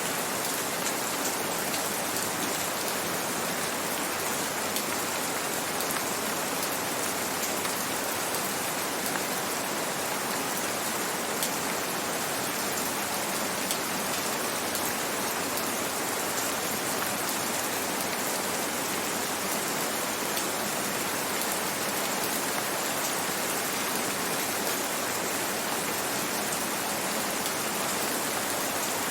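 Gentle rain falling steadily: an even hiss with faint scattered drop ticks.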